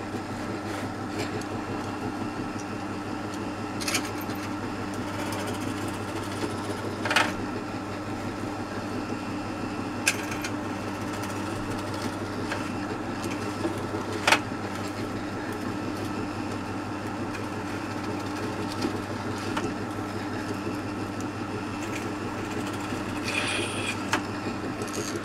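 Electric drill with a 1/8-inch bit running at a steady speed, drilling to transfer holes, with a few sharp clicks and knocks along the way. The motor cuts off abruptly at the very end.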